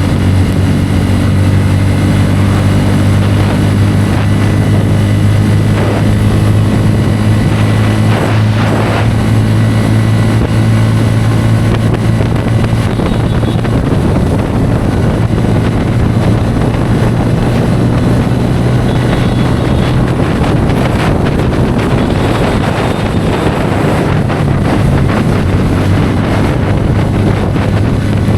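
Bajaj Pulsar N160's single-cylinder engine running at a steady cruise on the highway, with wind rushing over the microphone. The engine note changes a little about two-thirds of the way through.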